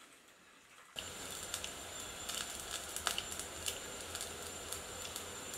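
Semolina appe frying in oil in a covered appe pan: a steady sizzle dotted with irregular crackles and pops, starting suddenly about a second in after near silence. The appe are cooking on their second side, with fresh oil just added.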